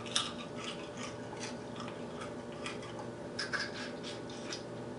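Close-up eating sounds: chewing with small wet mouth clicks and smacks, several a second, over a faint steady hum.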